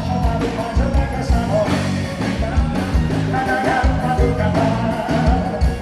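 Live forró band music played on stage, with a steady drum beat.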